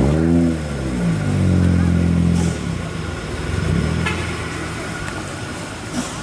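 An engine revving: its pitch rises and falls within the first second, then holds steady until it drops away about two and a half seconds in, with a weaker steady run a little later.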